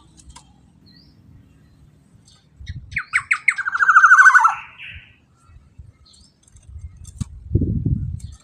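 Black-naped oriole calling about three seconds in: a few quick notes, then a rapid rattling call lasting about a second. Low thuds come before it and near the end.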